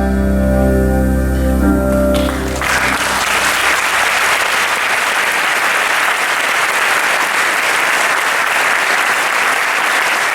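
The song's final held chord rings and cuts off about two and a half seconds in, and audience applause takes over and carries on steadily.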